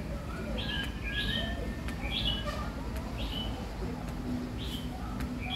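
Small birds chirping, a short sharp chirp every second or so, over a low steady background rumble.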